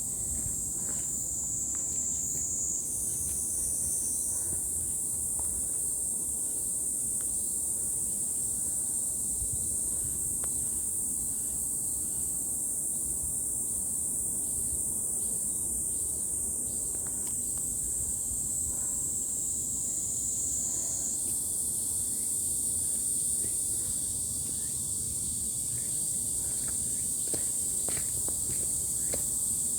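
A steady high-pitched insect chorus that shifts up in pitch about three seconds in and back down near twenty-one seconds, over a low rumble and scattered faint clicks.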